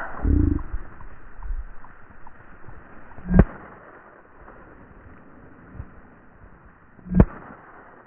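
Two sharp bangs about four seconds apart, over a faint steady rustle of wind and movement.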